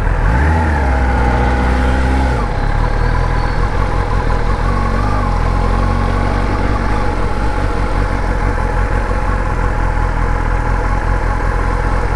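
Kawasaki ZX-10R's inline-four engine idling steadily, with a deeper, louder engine note in the first two seconds or so.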